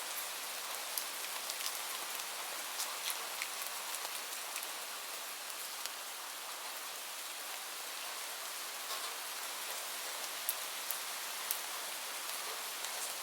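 Steady rain falling, an even hiss dotted with scattered sharp little ticks.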